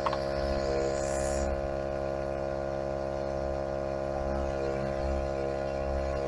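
Topline 12-volt portable tyre inflator running steadily while pumping up a car tyre past 2 bar, its motor and piston pump giving a constant buzzing hum. A short hiss comes about a second in.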